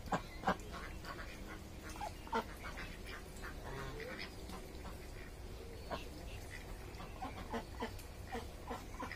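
Ducks quacking on and off, short calls scattered throughout.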